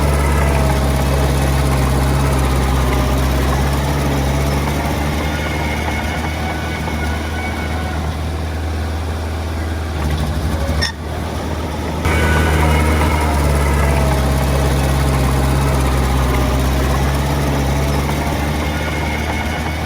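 Heavy diesel earthmoving equipment running steadily at a low, even engine note. About eleven seconds in the sound briefly drops, then resumes louder a second later.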